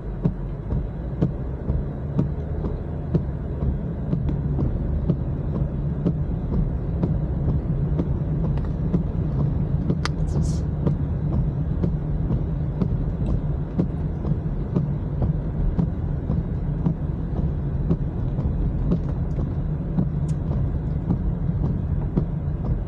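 Steady low rumble of road and engine noise inside a moving car's cabin, with a few faint clicks and one sharper click about ten seconds in.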